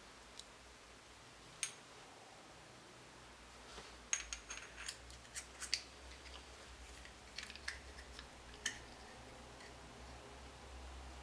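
Small metal tools and engine parts handled on a workbench: a run of sharp, light metallic clicks and clinks, one early, a busy cluster in the middle with brief high ringing, and a few more later.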